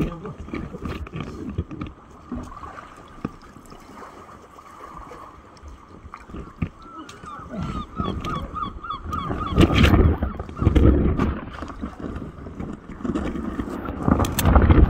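A bird calling a quick run of about a dozen short, repeated notes, about four or five a second, around the middle. Low rumbling bursts of wind on the microphone are loudest about ten seconds in and near the end.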